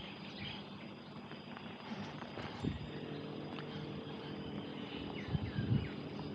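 Outdoor ambience with a steady high-pitched tone and a few short bird chirps; from about three seconds in, a vehicle engine running nearby adds a low hum.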